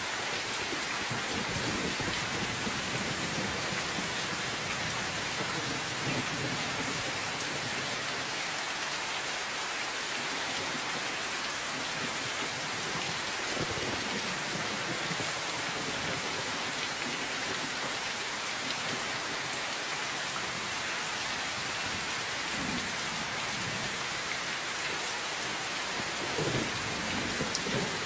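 Steady, dense rainfall, with low rumbles of distant thunder swelling up a few times.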